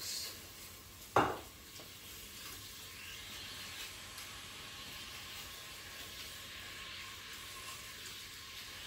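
Honey, garlic and ginger sizzling in oil in the inner pot of a Crockpot Express pressure cooker on its frying mode, stirred with a spatula. A single sharp knock comes about a second in.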